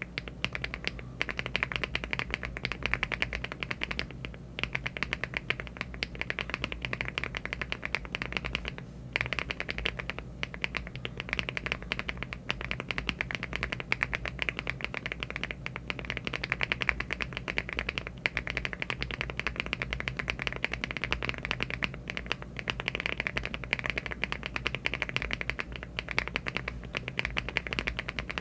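Continuous fast typing on a LEOBOG Hi75 aluminium mechanical keyboard with HMX EVA switches (48.5 g) and Cherry-profile keycaps: a dense run of keystroke clacks, with short pauses about four and nine seconds in. A low steady hum runs underneath.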